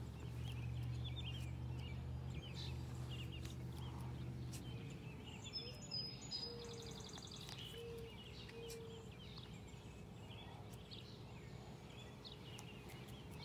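Quiet outdoor ambience of songbirds chirping, with a low steady hum that fades out after about four seconds and a few short held notes near the middle.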